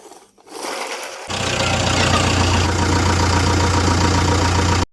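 Engine sound effect: a hiss builds, then about a second in a steady low engine rumble with a knocking character sets in. It cuts off abruptly near the end.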